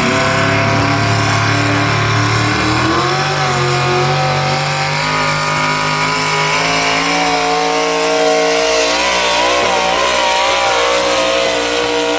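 Single engine modified class pulling tractor's engine running at full throttle under load during a pull, loud and steady, its pitch wavering and shifting as the load changes.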